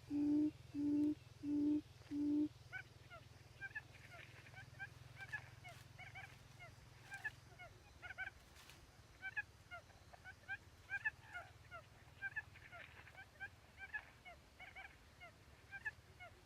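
Bird calls: four low, even hoots about two-thirds of a second apart that end about two and a half seconds in, followed by many short, high chirps and twitters.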